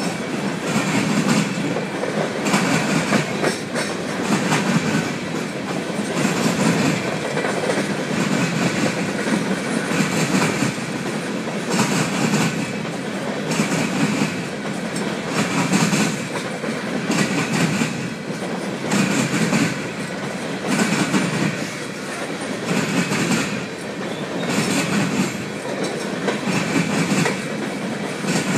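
Empty coal hopper cars rolling past, their steel wheels clicking over the rail joints in a repeating clickety-clack that swells roughly every second as each set of wheels goes by.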